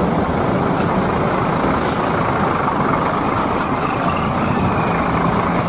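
Bus engine running: a steady, loud, noisy rumble with no clear pitch.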